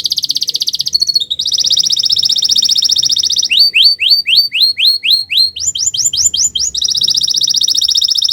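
Domestic canary singing a loud, unbroken song. It moves from rapid rolling trills into runs of rising sweeping notes, about four a second and then quicker, and ends in another fast trill.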